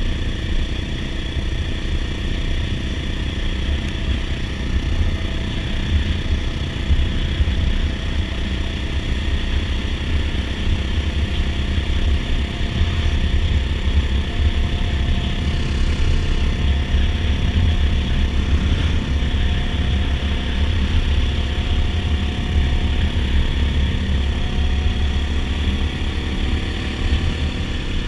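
Dirt bike engine running steadily as the bike rides along at an even speed, with no revving up or down.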